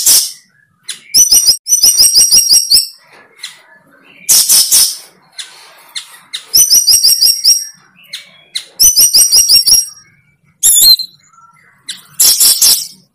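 A bird calling loudly and close by: short runs of rapid, high-pitched chirps, about six a second, alternate with a few harsher, noisier squawks.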